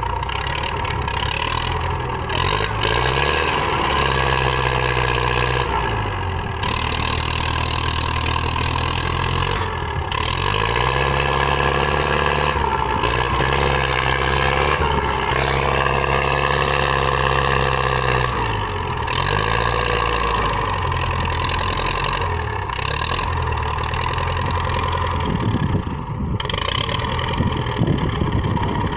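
Belarus tractor's diesel engine running hard, its pitch rising and falling again and again as the throttle is opened and eased, as when straining under a heavy load.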